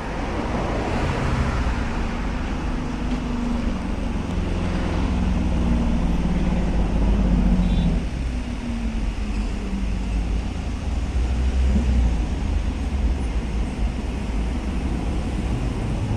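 Motor vehicle running with road noise: a steady low rumble with a wavering engine hum.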